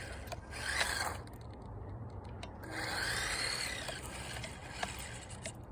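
Electric motor of a remote-control car whining, its pitch rising and falling as it speeds up and slows, strongest about three seconds in.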